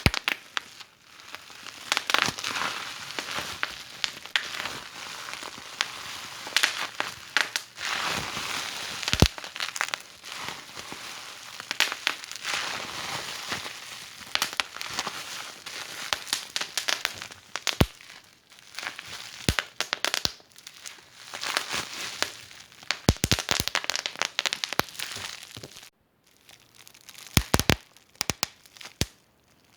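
Wood fire in a fireplace crackling, with frequent sharp pops and snaps over a soft hiss of burning.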